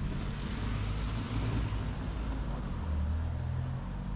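Street traffic: a vehicle engine running low, with tyre hiss from passing cars that swells and fades about a second in.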